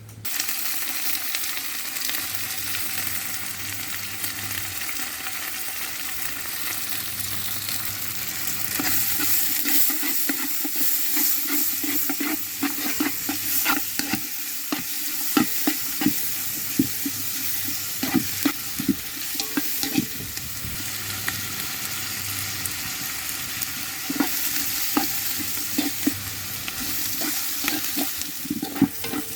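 Food sizzling as it fries in a pan, starting abruptly at the outset, while it is stirred. From about a third of the way in, repeated knocks and scrapes of the spoon against the pan come through the sizzle.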